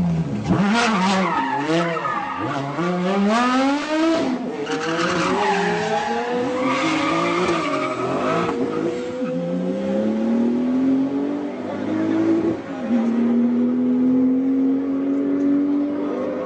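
High-performance car engines revving hard, the engine note swooping up and down again and again, then a steadier engine note held and slowly rising as a car pulls away.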